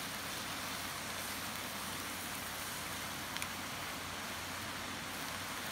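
Diced potato, bacon and mushrooms sizzling steadily in a cast-iron camp oven over coals, with a faint clink of the stirring spoon against the pot about three and a half seconds in.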